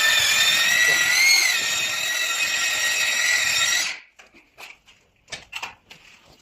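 A power tool's motor running with a steady high whine, pitch lifting briefly about a second in, then cutting off about four seconds in; faint clicks and scrapes follow.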